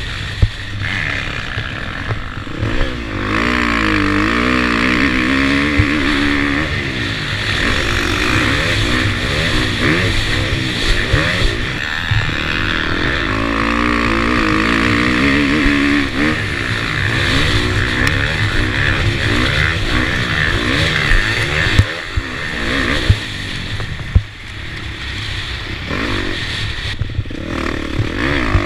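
Motocross motorcycle engine heard from the rider's onboard camera, revving up and down over and over as the bike accelerates, shifts and backs off around the track, with a steady rush of wind and road noise and scattered sharp knocks.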